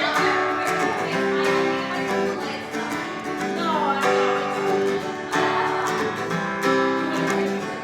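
Acoustic guitar strummed in a steady rhythm, playing an instrumental break between the sung chorus and the next verse.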